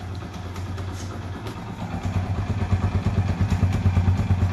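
Hero Honda Splendor's single-cylinder four-stroke engine idling steadily just after a self-start, left running to warm up from cold. Its exhaust beat gets louder about halfway through.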